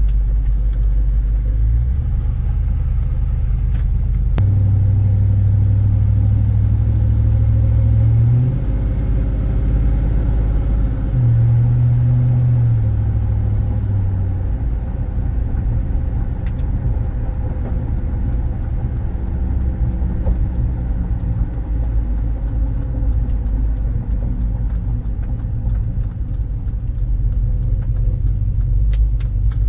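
Cammed 2006 Chevrolet SSR's LS2 V8 heard from inside the cab while driving: a steady low rumble with road noise. The engine note climbs and drops back twice in the first half, as with accelerating and shifting.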